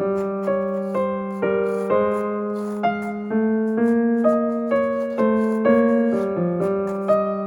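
Background piano music: a slow, gentle melody of single notes over held low notes, each struck note ringing and fading, about two notes a second.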